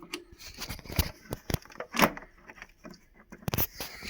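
Irregular clicks, knocks and scrapes of a fridge's power cord and 12-volt plug being handled and pushed into its socket.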